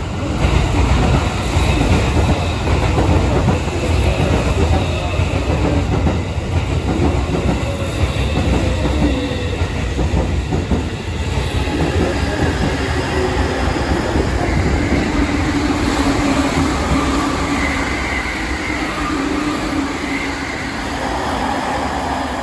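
Two Chiyoda Line electric trains: one running past close by on the adjacent track with its wheels clattering over the rail joints, while another pulls in slowly. In the second half, steady wheel squeals come in as the arriving train brakes.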